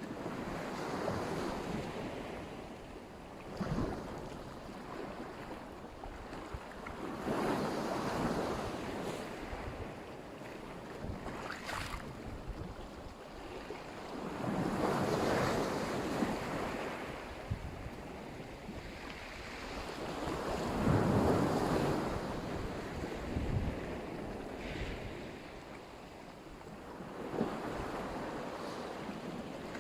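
Black Sea surf washing onto the shore, the waves swelling and falling away about every six or seven seconds, with some wind rumbling on the microphone.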